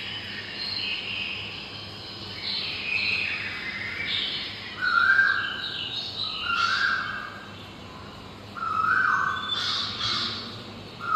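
Birds calling: a run of harsh, crow-like caws, several overlapping, the loudest about five seconds and ten seconds in.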